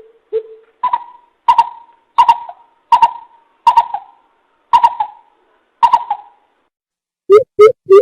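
Greater coucal hooting: a series of deep hoots, a few low ones then higher notes that come more and more slowly, and near the end a quick, louder run of lower hoots begins.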